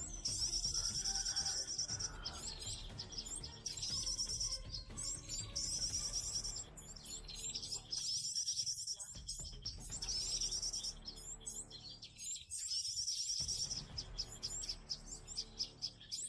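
Birds chirping and trilling rapidly in high-pitched phrases, in bursts that repeat about every two seconds.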